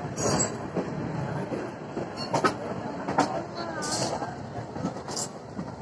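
Electric multiple unit suburban train running, heard from on board: a steady wheel rumble with a few sharp clacks as the wheels pass over rail joints.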